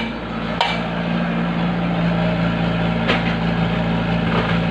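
A heavy engine running steadily at a low hum, with a couple of sharp knocks, one early and one about three seconds in.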